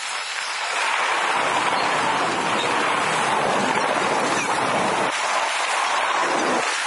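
Freight cars rolling past close by: a steady rush and rumble of steel wheels on rail. The low rumble eases briefly near the end.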